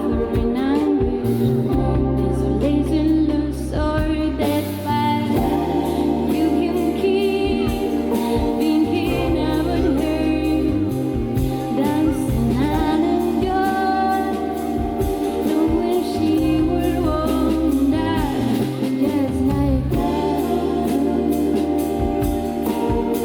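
Live band music with singing over a bass line that changes note every couple of seconds and a steady drum beat.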